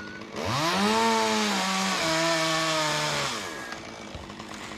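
Chainsaw revved up about half a second in, its engine pitch dropping in steps as it bogs under load in the cut, then winding back down after about three seconds.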